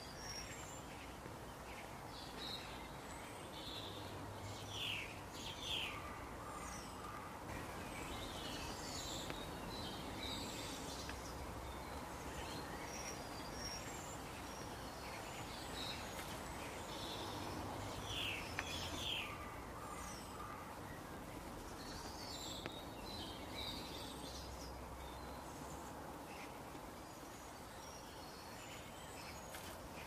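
Small birds chirping and singing in short, high calls scattered throughout, over a steady outdoor background hiss.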